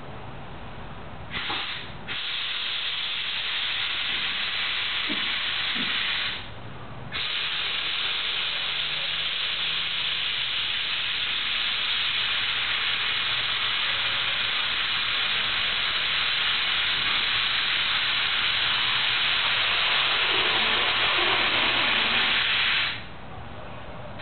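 Airkewld air ride suspension on a 1966 VW Beetle dumping air from its air bags to lower the car: a short hiss about a second in, then a long steady hiss of escaping air, broken once briefly, that cuts off sharply near the end.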